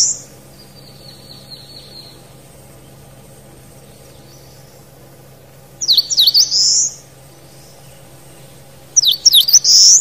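A songbird singing twice, loud phrases about a second long of quick notes that sweep down from high to lower and end on a bright high note, with a fainter trill early on.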